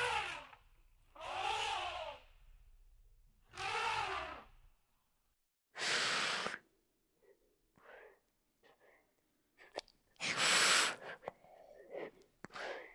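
An animal calling three times in short calls that rise and fall in pitch, then two loud, breathy blasts of air about 6 and 11 seconds in, with scattered small clicks between.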